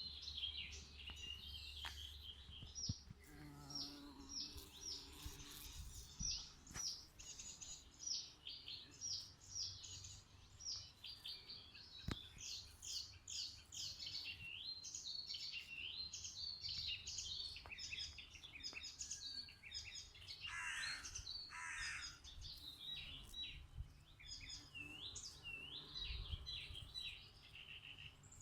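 Songbirds chirping and singing without pause, many short high calls and trills overlapping, over a faint low rumble.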